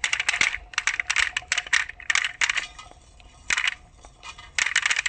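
Quick runs of sharp clicking and clattering from small hard objects, in several bursts with short pauses between them.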